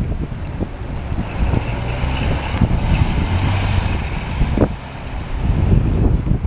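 Blizzard wind buffeting the microphone in uneven gusts, with a rushing hiss that builds about a second in and fades away a few seconds later.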